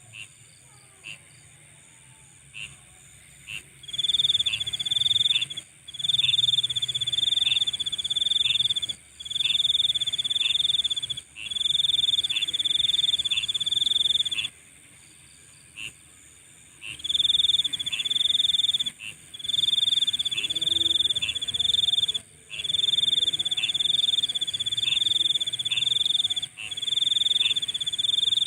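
Night insect chorus. From about four seconds in, a loud high trill comes in phrases of one to three seconds with short breaks. Throughout, a short chirp repeats at a steady pace over a constant very high drone from more insects.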